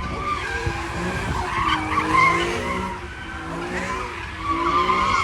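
Car tyres squealing as a car slides sideways in a burnout or drift, with its engine revving under it. The squeal wavers up and down, loudest about two seconds in and again near the end.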